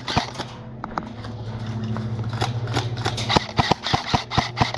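Airsoft guns firing: irregular sharp cracks in quick runs, growing denser from about halfway in, over a steady low hum.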